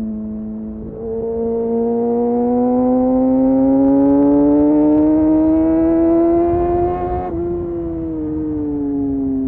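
Kawasaki Ninja motorcycle engine through an Arrow exhaust with the dB killer removed, accelerating. Its note rises steadily from about a second in, then drops abruptly near the end and falls away.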